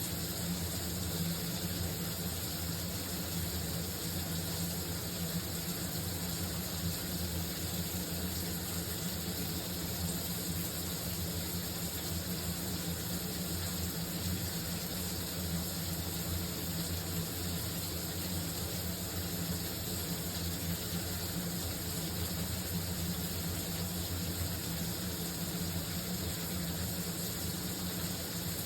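Shower running: a steady, unbroken spray of water with a low rumble underneath.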